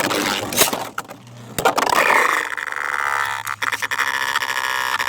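Beyblades launched into a plastic stadium with a sharp clack, then spinning with a steady whirring whine that slowly falls in pitch. A few quick clacks come near the middle as the tops strike each other.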